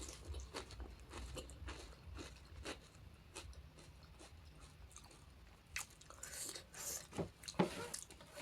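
Close-up chewing and crunching of panipuri, the crisp fried puri shells cracking between the teeth along with wet mouth sounds. The crackles come in an irregular run and grow louder and denser in the last few seconds.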